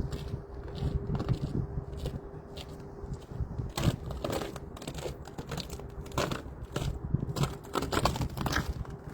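Footsteps crunching on frozen ground, an irregular run of crunches and crackles that grows busier about halfway through.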